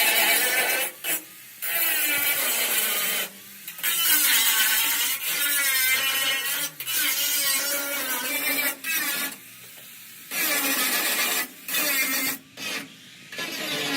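Tool work on the truck: scraping and grinding in stretches of a second or two, each cut off abruptly by a short quieter gap.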